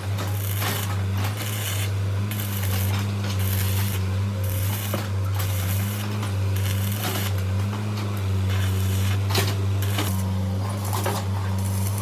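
A steady electric hum from a running workshop machine. Over it come irregular short bursts of hiss and a few light metallic clicks, as of parts being worked.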